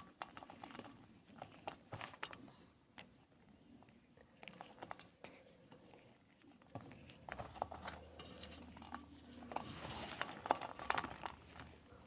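Black gym chalk ball being crushed, crumbling with a run of small crunches and crackles. The crunching grows denser and louder near the end.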